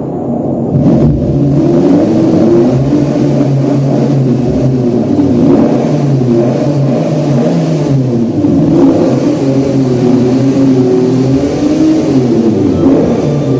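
Loud Lamborghini engine sound, revving up and easing off repeatedly, its pitch wavering rather than holding steady; it swells about a second in.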